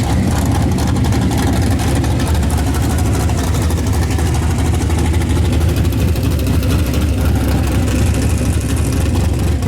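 Chevrolet S10 drag truck's engine running loud and steady at idle, close by.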